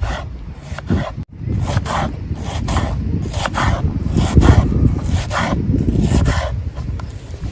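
Repeated rubbing and scraping strokes, about two or three a second, over a steady low rumble.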